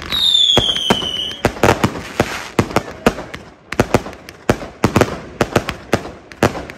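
Fireworks display: a high whistle falling slightly in pitch for about a second and a half at the start, then fast, irregular bangs and crackles of shells bursting, several a second.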